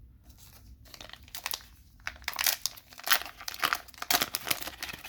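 Crinkling and tearing of a trading-card booster pack wrapper as it is torn open and handled, in irregular crackly bursts that start about a second in.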